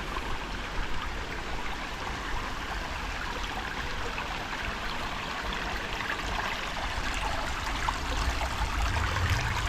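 Shallow creek water babbling and trickling over rocks: a steady wash of running water.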